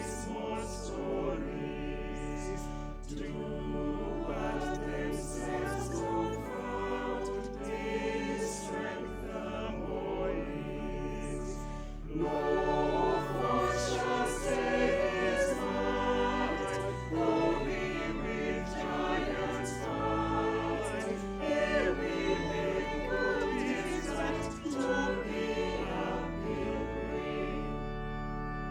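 Choral music: a choir singing, growing louder about twelve seconds in.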